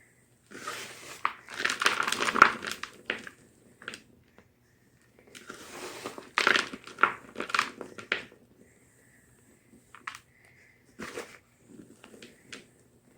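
Gym chalk crunching and crumbling up close, in two long dense bursts of crackle followed by a few short, separate crunches near the end.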